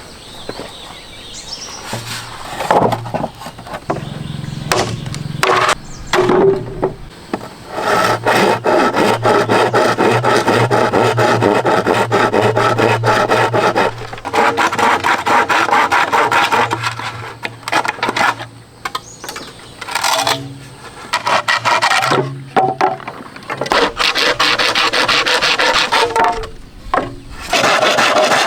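A hand tool rasping on wood in fast repeated strokes, like hand-sawing. It comes in runs of several seconds, the longest in the middle, broken by short pauses.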